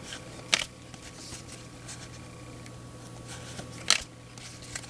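Baseball trading cards handled in a stack, cards slid and flicked from front to back with two sharp snaps about three seconds apart and soft swishes between. A low steady hum runs underneath.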